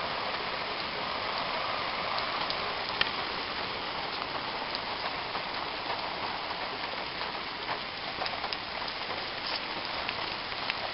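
Heavy, steady rain from Hurricane Irene falling and splattering on surfaces, an even hiss with a few faint drop ticks.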